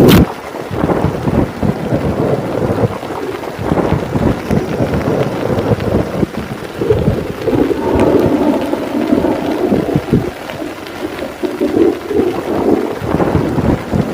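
Heavy rain falling steadily under long rolling thunder, the rumble swelling louder about halfway through and again near the end.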